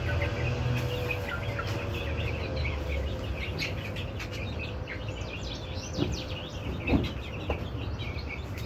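Many chicks peeping together in rapid, overlapping high chirps, with a low rumble for the first few seconds and two knocks about six and seven seconds in.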